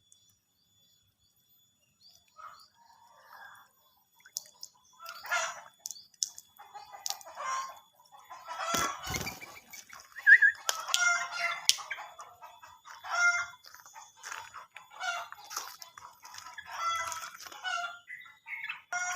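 Irregular bird calls starting about two seconds in and growing busier after about eight seconds, with a few sharp knocks among them.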